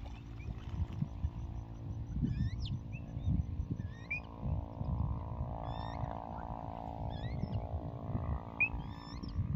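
Short bird chirps and whistles come and go over a low, irregular rumble and a steady droning hum.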